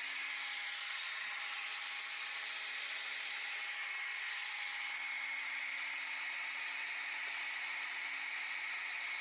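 Seadoo Sea Scooter's small electric motor and propeller running steadily on battery power: an even whir with a high steady tone.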